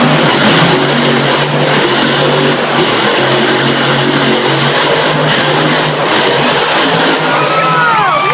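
Monster truck engine running loud under heavy throttle, easing off briefly several times. Crowd shouts and cheers start to rise near the end.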